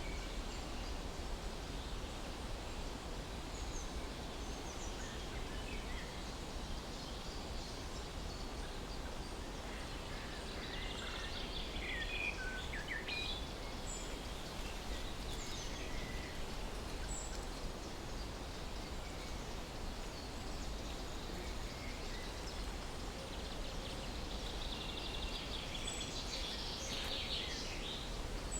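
Several birds chirping and calling off and on over a steady hiss and low rumble of outdoor ambience, with livelier bursts of calls about a third of the way in and again near the end.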